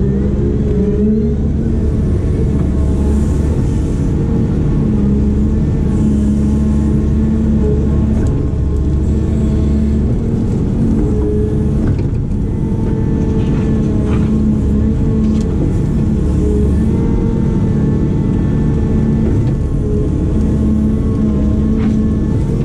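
Diesel engine of a heavy construction machine running steadily under work, its pitch stepping up and down a few times, with a few light knocks around the middle.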